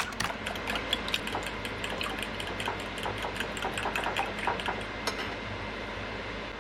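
Food frying in hot oil, with dense irregular crackles and pops over a steady hiss. The crackling stops abruptly about five seconds in, leaving the steady hiss and a low hum.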